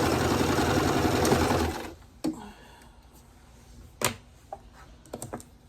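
Sewing machine stitching at a steady fast rate, stopping about two seconds in. A few light clicks and taps follow, the sharpest about four seconds in.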